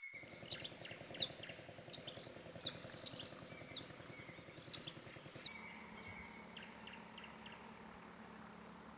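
Forest birds calling: a series of short, high whistled notes, many held level and then dropping sharply in pitch, mixed with lower level whistles. Under them runs a low rumble that steadies into a hum about halfway through, and a faint steady high whine.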